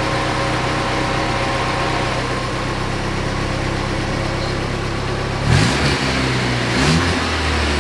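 Saab 90's four-cylinder engine idling on its Stromberg carburettor while the mixture and idle are being set, then blipped twice, about five and a half and seven seconds in.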